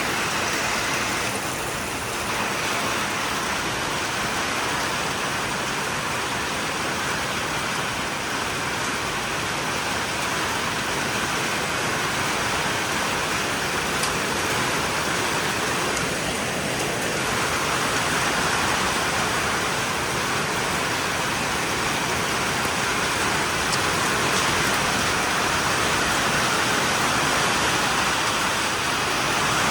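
Rain from a squall line falling steadily as an even, unbroken hiss.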